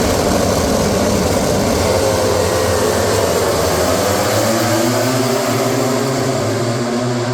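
A pack of MotoGP racing motorcycles running together at high revs, several engine notes rising in pitch about halfway through as the bikes accelerate away early in the sprint race.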